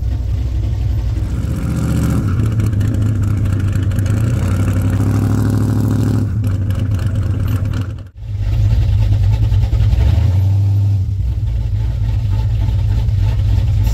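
Car engine running with a deep, steady rumble. It cuts out for a moment about eight seconds in, then comes back.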